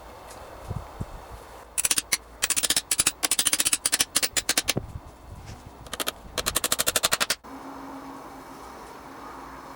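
Several runs of rapid, evenly spaced sharp taps, about ten a second, each run lasting up to about a second and a half, stopping abruptly near the end.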